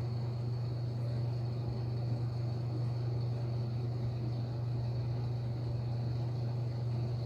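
Steady low hum with a faint, thin high-pitched whine: the running noise of a 1997 LG MGS traction elevator.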